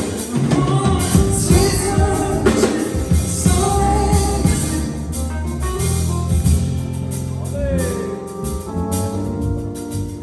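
Live band playing a song, with a singer's voice over drums and held chords. The voice stops about halfway through and the band plays on.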